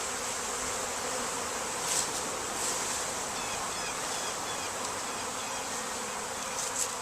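Steady, dense buzzing of a very large honeybee swarm while it is being hived, with a couple of brief soft knocks.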